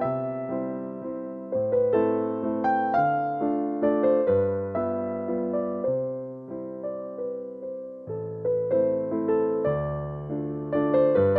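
Gentle background piano music: notes struck one after another over low bass notes, each ringing and fading.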